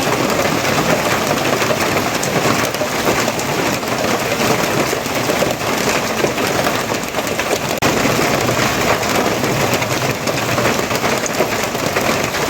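Steady heavy rain falling and pattering on surfaces, a dense even hiss with fine crackle.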